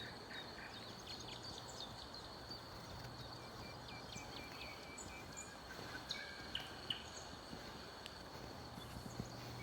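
Small songbirds calling in a forest: scattered short, high chirps over a steady background hiss, with a quick run of repeated notes about halfway through.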